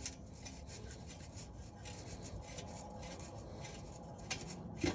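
Faint, irregular metallic clicking and scraping of hand tools on exhaust bolts and pipe while a stock exhaust mid-pipe is being snugged up on its first bolts.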